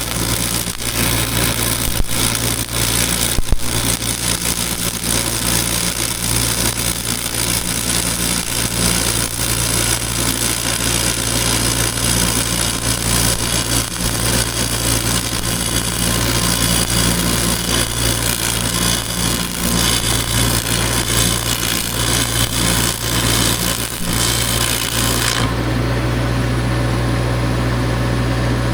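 Arc welding: a continuous crackle from the arc as the cracks around a boom pin are welded up, over a steady low hum. The crackle stops abruptly about 25 seconds in, leaving only the hum.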